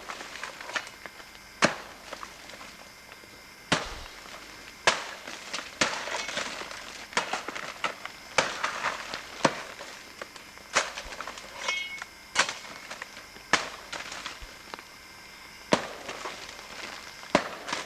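Footsteps through dry leaf litter on a rainforest floor, with sharp snaps of twigs and a crackle of leaves at irregular steps, roughly one a second.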